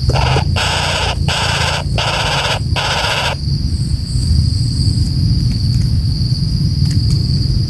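A bird giving four harsh, raspy calls in quick succession in the first few seconds, then stopping. A steady high insect-like whine and a low rumble run underneath.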